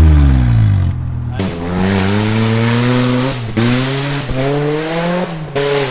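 Car engine running hard: the revs fall at the start, then climb in two long pulls, each cut by a sudden drop in pitch like a gear change, and the sound grows fainter toward the end.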